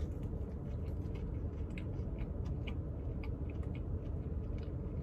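A man chewing a mouthful of fried chicken biscuit: a run of small, irregular mouth clicks over a steady low rumble.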